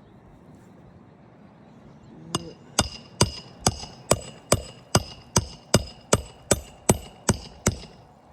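Hammer driving a roofing nail on a shingle roof: about fourteen even strikes, roughly two and a half a second, each with a short ring, starting a couple of seconds in.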